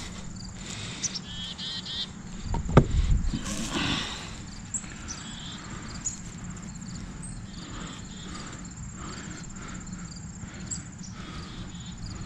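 Hay rustling and low thumps as it is pushed aside by hand to uncover potatoes, loudest about three seconds in. Under it runs a steady high insect trill.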